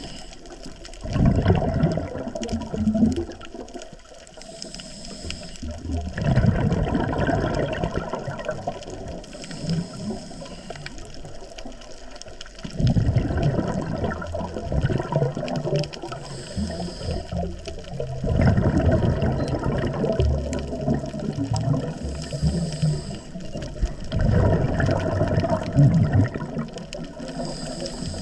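A scuba diver breathing through a regulator underwater. About every five to six seconds there is a loud gush of exhaled bubbles lasting two to three seconds, five in all. Between them come short, quieter moments with a thin hiss as the diver breathes in.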